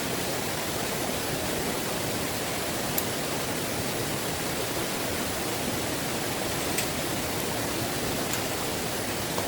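Heavy rain pouring in a steady, dense hiss, with a few sharp ticks of single drops landing.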